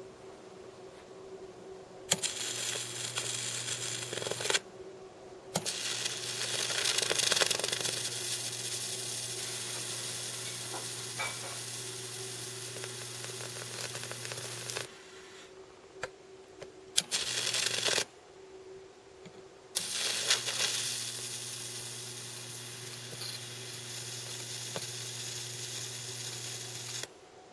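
High-voltage arc from a microwave oven transformer, its output rectified with 1N4007 diodes and smoothed by a capacitor, sizzling over a steady low hum. It is switched on and off four times, in runs of a few seconds with short gaps, the longest lasting about nine seconds.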